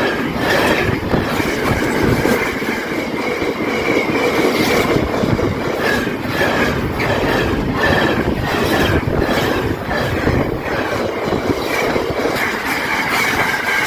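Freight train wagons rolling past, wheels clacking over the rail joints with intermittent high wheel squeal.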